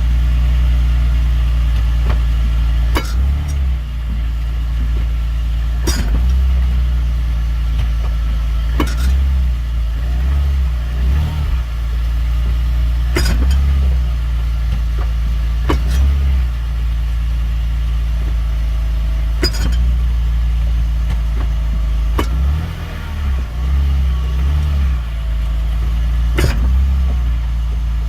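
BMW E46 328Ci's 2.8-litre inline-six running at low revs, with a sharp single clunk from the rear of the car roughly every three seconds, about eight in all. The clunk comes each time the car changes direction between forward and reverse, not when it moves the same way again.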